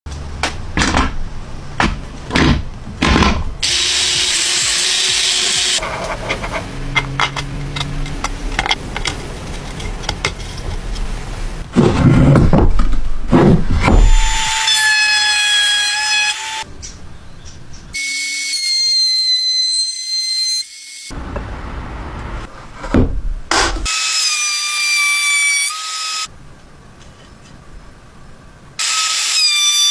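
A string of short power-tool sounds: knocks and noisy bursts of drilling and sawing into wood, then from about halfway a steady motor whine that stops and restarts several times at slightly different pitches.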